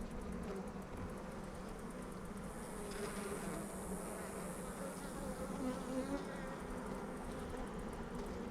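Steady buzzing of many honeybees around an open hive's brood box during a frame inspection.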